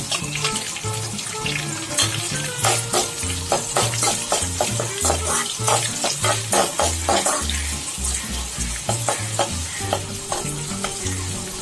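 Shallots and curry leaves sizzling in hot oil in an aluminium kadai while a spoon stirs them, scraping and clicking against the pan again and again. The onions are being sautéed.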